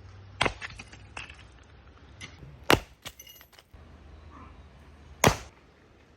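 A few sharp knocks, the loudest near three seconds in and again about five seconds in, with a brief ringing clink just after three seconds, over a faint low hum.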